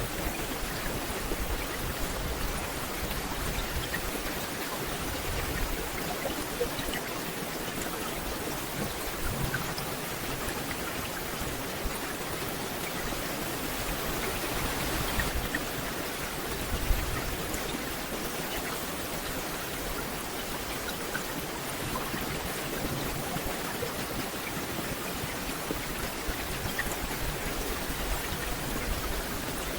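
Steady rain falling on forest leaves, an even patter of countless drops. There is one slightly louder drop or tap about seventeen seconds in.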